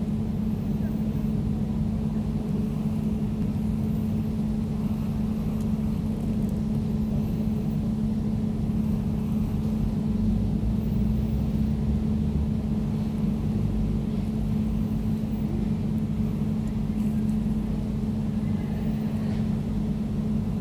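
Air conditioner running steadily: an even low hum with a fainter higher tone above it, over a soft rush of moving air.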